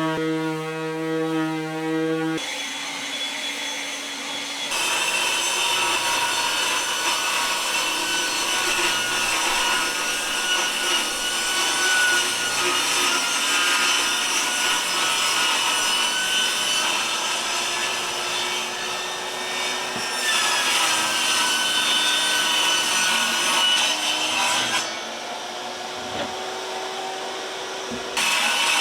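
Power saw cutting wood: a motor whine with rasping through the cut, its pitch sagging and recovering as it bogs under load. It drops back briefly a few seconds in and again near the end.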